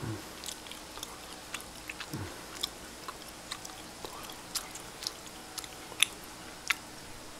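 A person chewing food close to the microphone: irregular soft clicks and mouth smacks, with two short low hums, one at the start and one about two seconds in.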